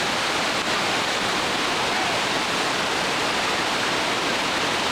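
River rapids rushing: a steady, even roar of whitewater.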